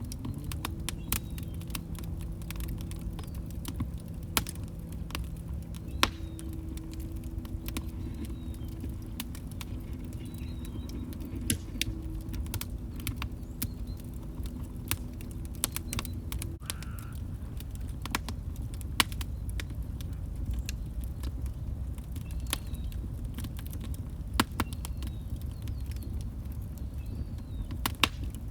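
Log fire crackling: irregular sharp pops and snaps, some louder than others, over a steady low rumble of burning. A faint low steady tone runs under it for the first half or so.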